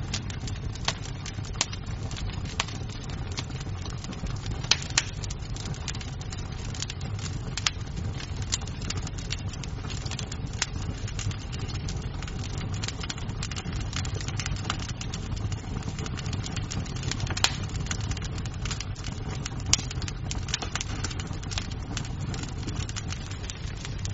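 Wood fire crackling in a fireplace: a steady low rumble of burning with constant small pops of the wood, and a handful of sharper, louder snaps scattered through.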